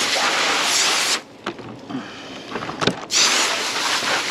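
Garden hose spraying water over a red grouper as it is rinsed; the spray stops for about two seconds in the middle, with a few small knocks, then starts again.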